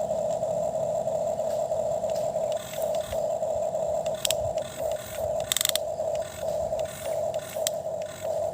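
Toy excavator's small electric motor and plastic gears whirring, starting and stopping in short runs, with a few sharp clicks and a quick rattle of clicks midway.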